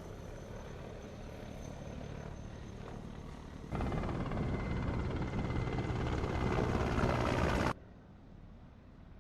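Military helicopter rotor and engine noise with a thin steady whine over it, in two cut-together stretches, the second louder from about a third of the way in, stopping abruptly about three-quarters through.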